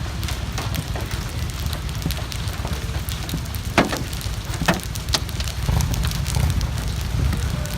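Hail and rain pelting down: a dense patter of sharp, irregular clicks from hailstones striking, over a steady low rumble, with a few louder hits in the middle.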